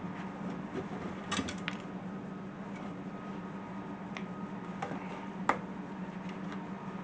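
Scattered light clicks and taps of intake-kit parts being handled while the gasket is fitted: a quick cluster about a second and a half in, then single clicks, the loudest about five and a half seconds in. A steady low hum runs underneath.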